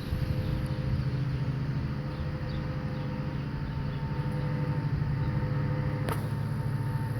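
Dirt bike engine running steadily as the rider comes back along the road, only faintly made out. A sharp click about six seconds in.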